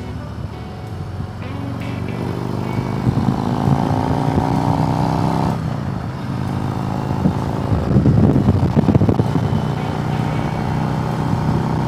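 Motorcycle engine pulling under power, its pitch rising for a few seconds, then dropping suddenly about halfway through before it pulls again.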